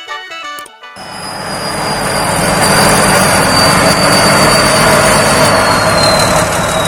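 Rice combine harvester's engine running loud and steady, cutting in sharply about a second in, with a thin high whine that slowly drops in pitch.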